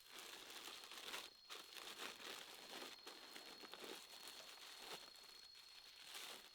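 Faint, irregular rustling and crackling, with a thin steady high-pitched tone throughout.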